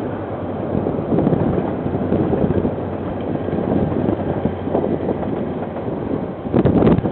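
Train passing: a steady rumble of wheels on rails, with clusters of short clacks near the end, and wind on the microphone.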